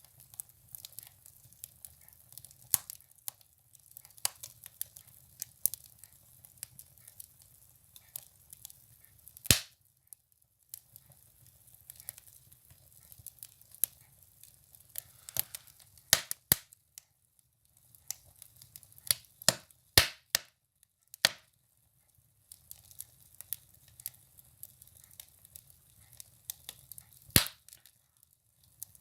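Firewood burning in a wood stove, crackling with irregular sharp pops and snaps, a few of them much louder, over a faint low hum.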